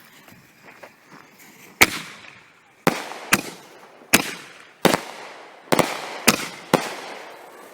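Four chained double-break ball shells from a Night Stalkers artillery kit going off from fiberglass mortar tubes. Eight sharp booms come over about five seconds, mortar launches and aerial breaks mixed, each trailing off briefly.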